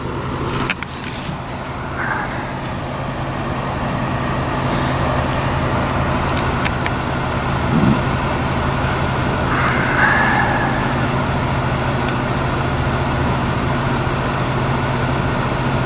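Motor vehicle engine idling steadily close by, a constant low hum.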